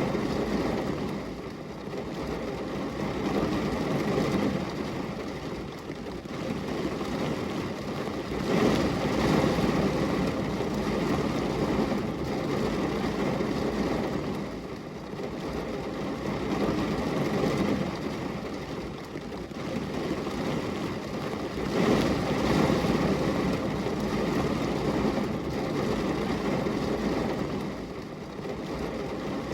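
Steady heavy rain, a dense, low, even rush that swells and eases every few seconds.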